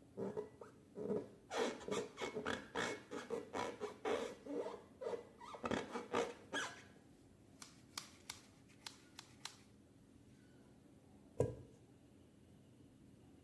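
Close-up slime-making handling: a rapid run of sticky clicks and crackles that thins out to scattered clicks after about seven seconds, with one sharp thump near the end.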